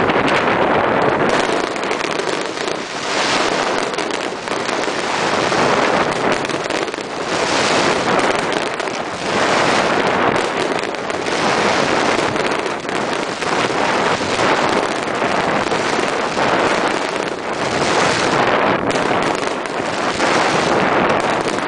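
Fireworks display: shells bursting and crackling in a continuous, densely packed barrage with no pause.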